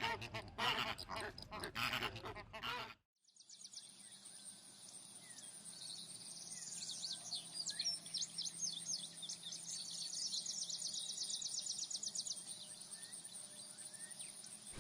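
Ducks quacking for about three seconds, cut off sharply. Then faint songbird chirps and rapid trills over a steady outdoor background.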